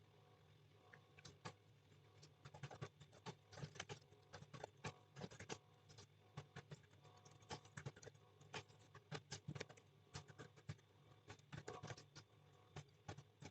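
Computer keyboard being typed on: quiet, irregular clicks coming in quick clusters, over a low steady hum.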